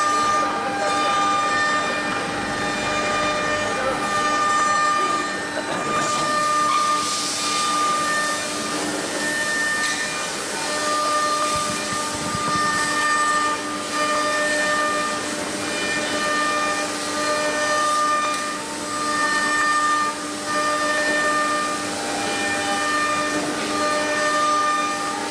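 Four-axis CNC router running: a steady whine with higher tones that switch on and off and shift as the machine moves, and a stretch of hissing about six seconds in.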